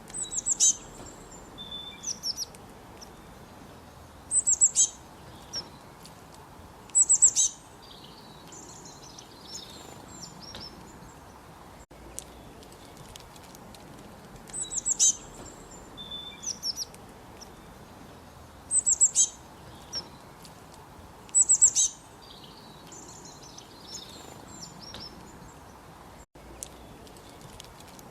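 Songbirds chirping in short bursts of rapid high notes every few seconds, over the steady murmur of a flowing creek. The same sequence of calls repeats about every 14 seconds.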